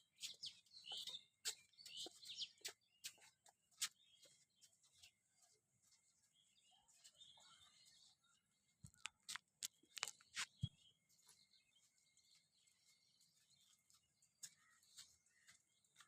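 Faint bird chirps, with scattered sharp clicks and taps.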